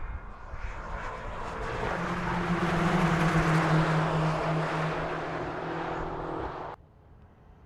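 A car engine running at a steady pitch, growing louder to a peak and then easing off slightly, before cutting off suddenly near the end.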